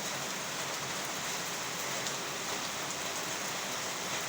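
Heavy rain falling steadily, pattering on surfaces and floodwater.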